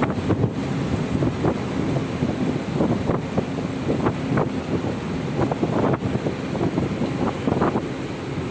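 Wind buffeting the microphone in irregular gusts over the steady rumble and wash of a boat at sea.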